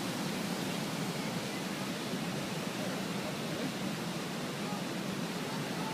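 Fast-flowing floodwater of a swollen river rushing past, a steady, even noise with no letup.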